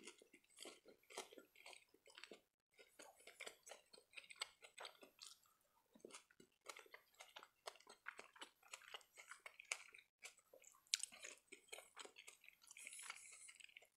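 Close-miked chewing of a mouthful of spaghetti in tomato sauce, mouth closed: a quiet, steady run of small mouth clicks.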